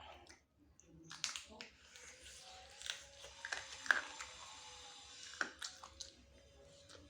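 Close-up sounds of a person eating spicy chicken wings: chewing and biting, with irregular sharp clicks and crunches starting about a second in.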